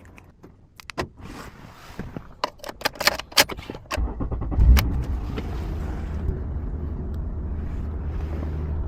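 Keys clinking and clicking in the ignition, then about four seconds in a Honda Accord's engine starts, surges briefly and settles into a steady idle. The engine firing is the sign that the car accepts the newly programmed chip key.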